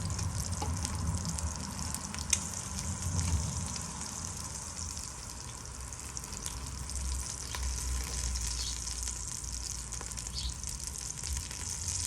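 Breaded chicken thighs shallow-frying in canola oil on a hot flat-top griddle, a steady high sizzle. A single sharp click about two seconds in.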